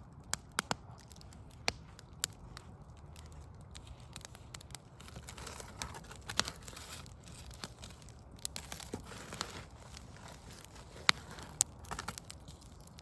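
Wood fire burning, with irregular sharp pops and snaps over a steady low hiss and rumble of flames, and denser soft crackling for a few seconds around the middle.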